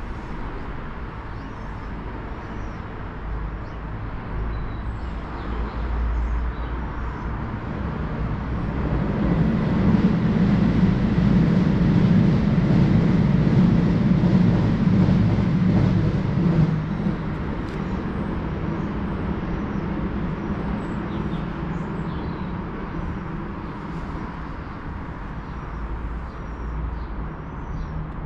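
London Underground Jubilee line train (1996 Stock) approaching and passing close by: the electric train's rumble and hum on the rails build up, are loudest from about ten to sixteen seconds in, then drop off suddenly as it passes.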